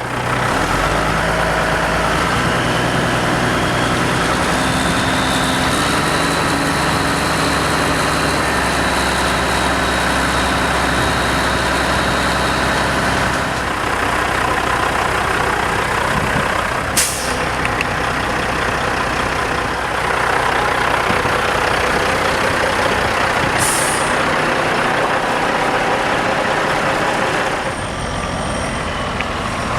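A 2000 Kenworth T800 dump truck's diesel engine running, an even note for the first half and rougher after that. Two short hisses of air from the air brakes come after about the middle, several seconds apart.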